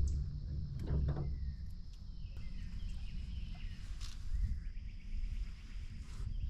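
Outdoor bayou ambience: a steady low rumble and a steady high insect drone, a few sharp knocks early and about four seconds in, and faint repeated chirps from about two seconds on.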